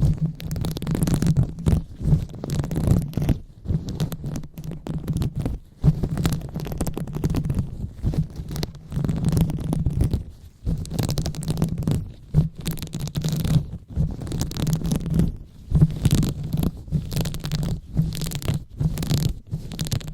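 Fingers rubbing and scratching directly on the microphone, ASMR 'brain massage': a deep, close rumbling rub in long strokes, broken by short pauses every few seconds.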